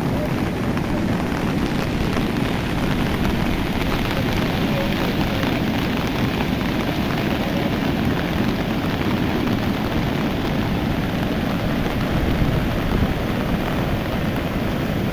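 Swollen river in flood rushing past, a steady, unbroken roar of fast water heaviest in the low end.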